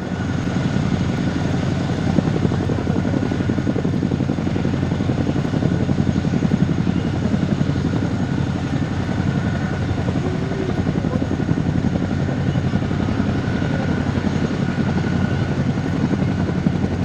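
Helicopter rotors turning steadily, a fast, even chop with a faint steady whine above it.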